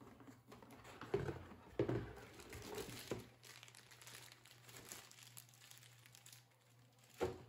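Faint crinkling of a clear plastic bag around a power cord, with soft handling knocks as a laptop power-supply brick and its cable are lifted out of a box compartment, and a short knock near the end.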